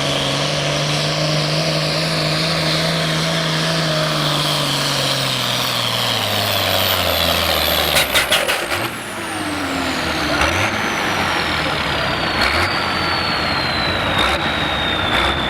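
A pulling tractor's engine runs hard at a steady high note, then its revs fall and it settles lower about six seconds in. A high whistle slides steadily down in pitch throughout, and a quick cluster of sharp cracks comes about eight seconds in.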